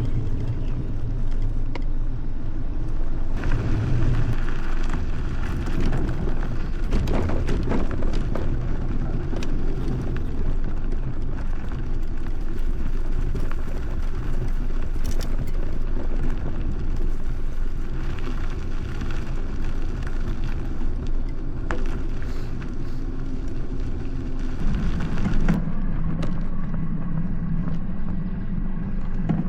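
Aixam D-Truck microcar's small diesel engine running as it drives, with steady road and tyre noise. The engine note steps up in pitch about 25 seconds in.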